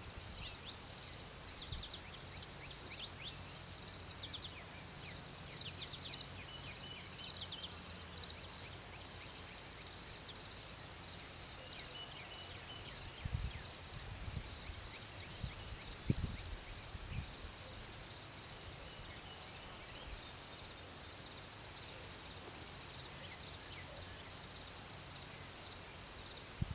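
Insects chirping in a steady, fast-pulsing high-pitched chorus, with a few faint bird chirps near the start and some soft low thumps in the middle.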